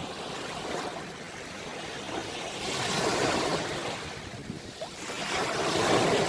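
Ocean waves washing onto the shore, the surf swelling twice, at about 3 seconds and again near the end.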